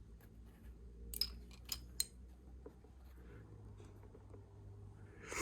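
Plastic Lego pieces clicking as they are handled: a few sharp clicks between about one and two seconds in, then a short louder clatter near the end.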